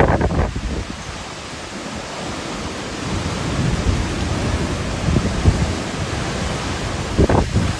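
Hurricane wind and rain making a steady rush with low rumble. Gusts buffet the microphone briefly at the start and again about seven seconds in.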